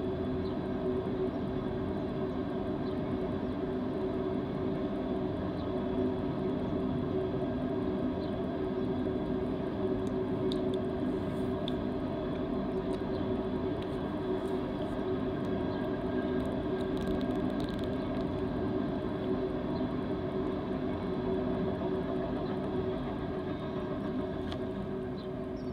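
BNSF coal train's freight cars rolling past: a steady rumble of steel wheels on rail with a steady droning hum, and a few faint clicks about halfway through. It eases slightly near the end as the last cars pass.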